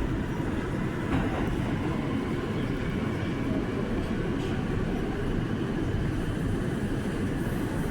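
An R179 subway car running between stations, heard from inside the car as a steady rumble of wheels on the rails.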